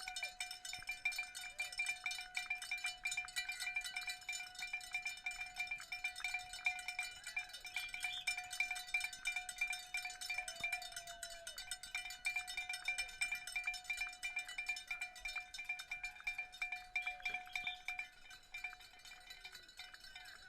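A bell shaken rapidly and continuously, giving a steady run of metallic ringing strokes that thins out near the end.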